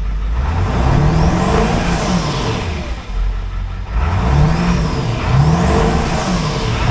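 A 2002 Ford 7.3 Powerstroke turbo-diesel V8 being revved several times, in two bursts, its pitch rising and falling with each rev and a high whine rising and falling along with it. The engine has just been repaired of a rough idle.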